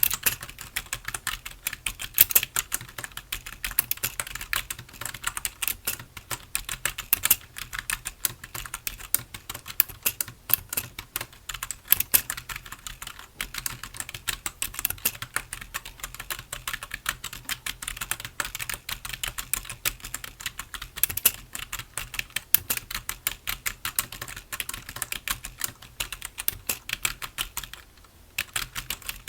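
Typing on a computer keyboard: a steady, dense stream of key clicks, with a short pause near the end.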